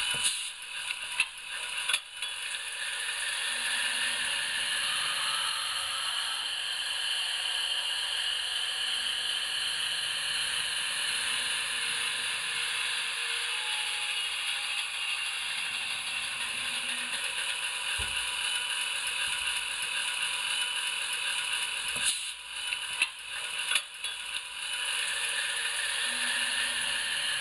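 HO-scale PIKO diesel locomotive running on model track, its sound decoder playing a steady diesel engine sound over the whir and clatter of the model's running gear. Sharp clicks come in small groups about a second in and again about twenty-two seconds in.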